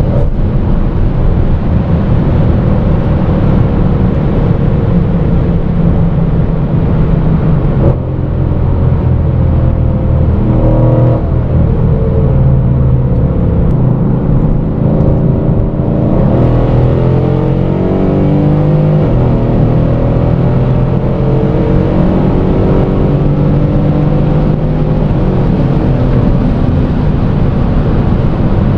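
Tuned Mercedes C63 AMG's 5.5-litre twin-turbo V8 pulling hard at high autobahn speed over steady road and wind noise. Its note dips briefly about eight seconds in and shifts in pitch several times around the middle.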